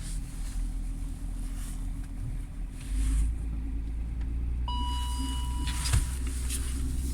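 BMW 525d's 2.5-litre straight-six diesel running at idle shortly after a cold start without glow plug preheating, a steady low rumble that grows louder about three seconds in. Near the end a steady high beep sounds for just over a second, followed by a sharp knock.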